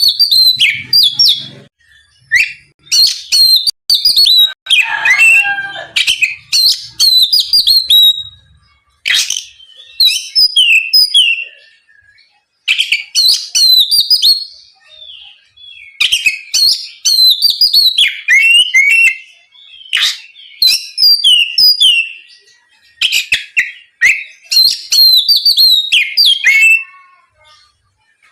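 Oriental magpie-robin (kacer) in full song: loud, fluent runs of rapid whistled and chattering notes a few seconds long, separated by brief pauses.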